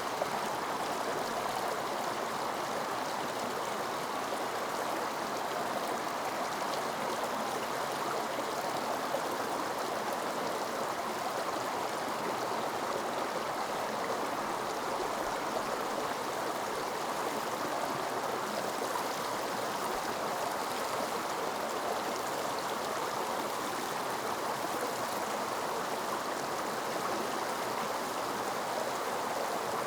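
A stream flowing steadily, an even rushing of water with no breaks.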